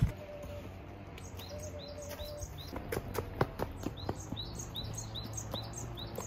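Small songbird singing a fast run of short, repeated, downward-sliding chirps, about three a second, starting about a second in. A few light taps and knocks around the middle.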